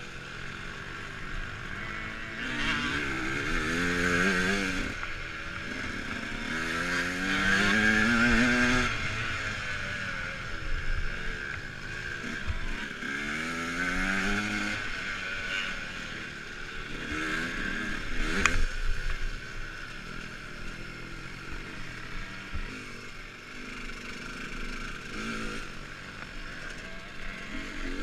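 Dirt bike accelerating again and again, its pitch rising with each burst of throttle, over a steady rushing noise. There is a sharp knock about 18 seconds in.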